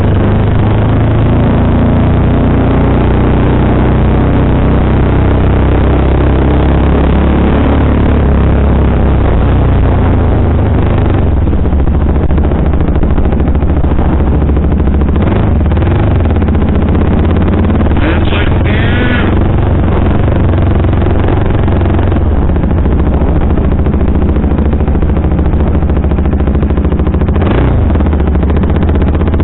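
KTM sportbike engine running under way, heavy wind noise on the microphone over the rumble, the engine note shifting in pitch during the first ten seconds. A brief high-pitched sound comes about eighteen seconds in.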